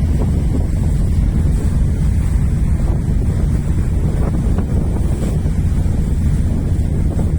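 Steady wind buffeting the microphone over a constant low rumble, aboard a boat under way.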